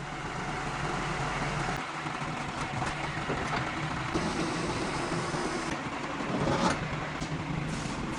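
A heavy vehicle's engine running steadily, with a few short knocks about halfway through and again near the end.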